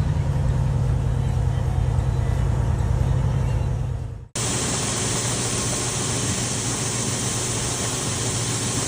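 A motor vehicle's engine rumbling steadily. About four seconds in it cuts off abruptly, and a steady hiss with a low hum underneath takes over.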